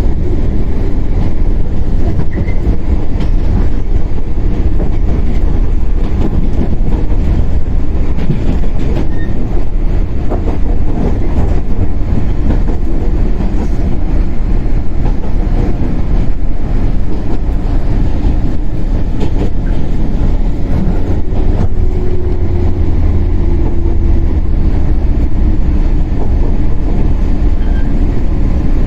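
115-series electric multiple unit motor car running on the line, heard from aboard: a steady rumble of traction motors and wheels on rail, with scattered clicks as the wheels pass rail joints.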